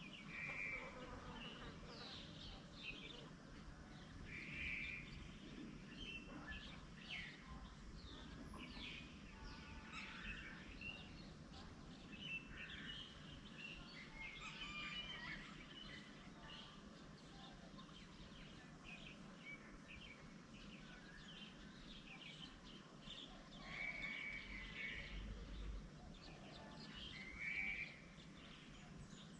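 Several small birds chirping and calling, short calls and trills scattered throughout over a faint steady background hum.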